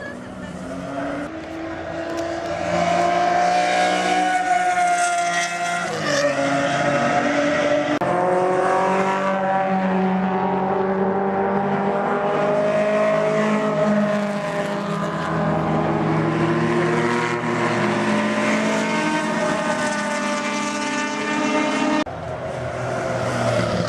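Historic cars' engines running hard on a race circuit, the pitch climbing under acceleration and dropping sharply about six seconds in as a gear is shifted, then holding high. The sound changes abruptly near the end.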